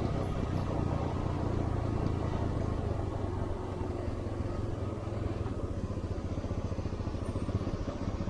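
Motorcycle engine running steadily while riding, a low rumble with rapid even firing pulses.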